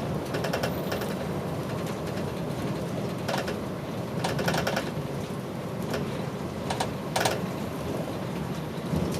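An older diesel route bus driving, heard from inside the cabin: a steady low engine and road rumble, with short bursts of rattling from the bus's fittings several times.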